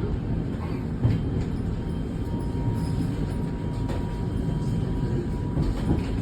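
T12 tram-train (Alstom Citadis Dualis) running along the track, heard on board: a steady low rumble of wheels and running gear. A faint steady whine runs through the middle, and there is a single knock about a second in.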